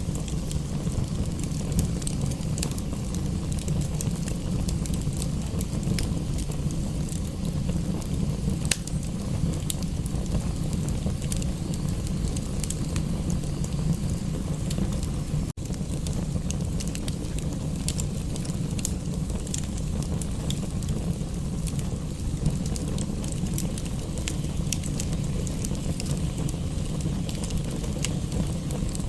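Wood fire crackling with frequent sharp pops over a steady low rumble; the sound cuts out for an instant about halfway through.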